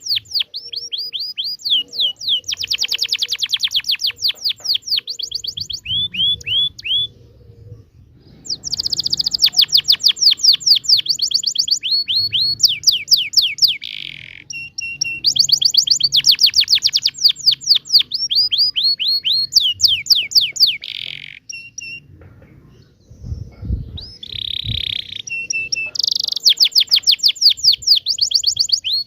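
Domestic canary singing a long song of rolls: rapid runs of quick down-sweeping notes and trills, in phrases broken by two short pauses.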